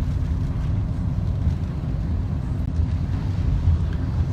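Steady low rumble of a moving car, with road and wind noise in strong typhoon wind.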